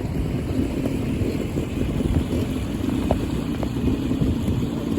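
Classic trials motorcycle engine running steadily through the section.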